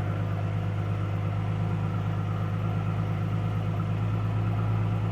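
2007 Ford Mustang's 4.0-litre V6 idling steadily through a stock Ford V6 muffler.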